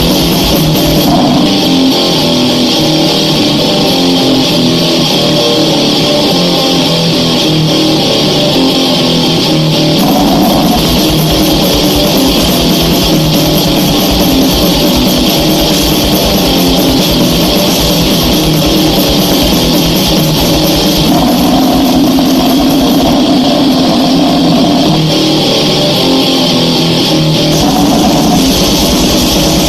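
Goregrind recording: loud, heavily distorted electric guitar riffing over fast, dense drumming, forming a continuous noisy wall of sound. The riff changes several times.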